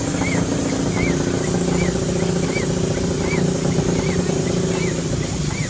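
Engine running steadily at idle, a constant low hum with a short high chirp or squeak repeating about every two-thirds of a second.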